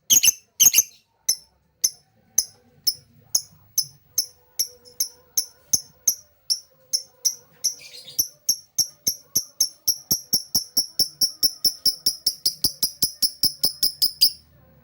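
Lovebird giving a long run of short, sharp, high chirps that speed up from about two a second to about four a second, then stop suddenly.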